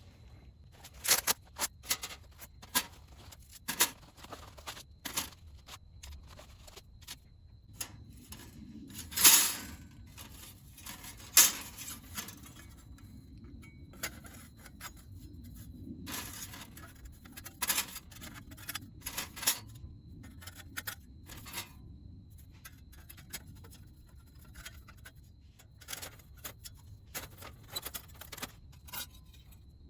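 Metal panels of a Flexfire6 flat-pack fire pit clinking, clicking and scraping as they are handled and slotted together during assembly. The strikes come irregularly, with the loudest about nine and eleven seconds in.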